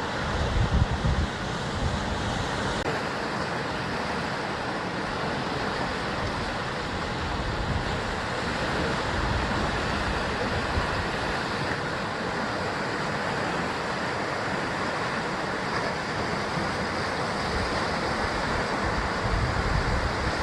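Sea surf washing against the basalt columnar-joint cliffs, a steady rush of broken water. Low wind buffeting on the microphone comes about a second in and again near the end.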